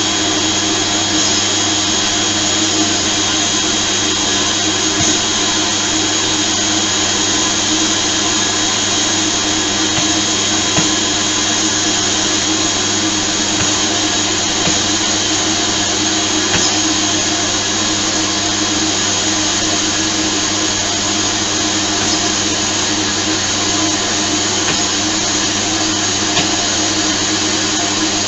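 Vacuum cleaner running steadily and loudly, with a few light knocks now and then.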